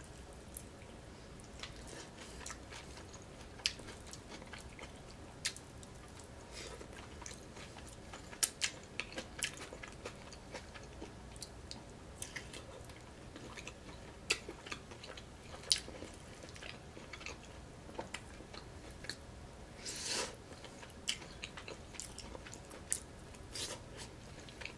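A person chewing a mouthful of food close to the microphone, with many sharp, irregular wet mouth clicks.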